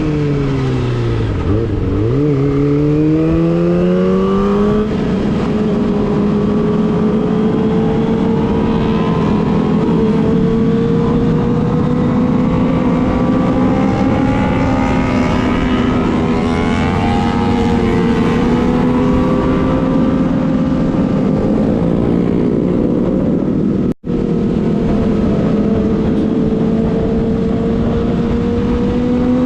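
Kawasaki ZX-25R's 250 cc inline-four running on the move. The revs fall over the first two seconds, climb again, then hold a steady high note with small rises and dips. The sound drops out for an instant about 24 seconds in.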